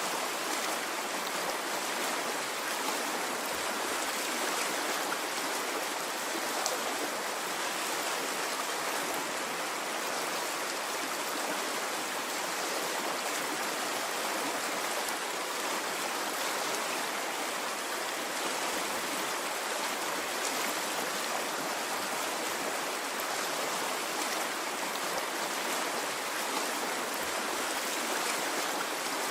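Flowing stream: a steady, unbroken rush of running water at an even level, without the rise and fall of waves.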